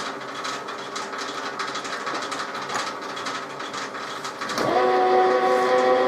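Metal lathe running with a steady gear whine and faint regular ticking; about four and a half seconds in it gets suddenly louder as a stronger, steady multi-tone whine takes over.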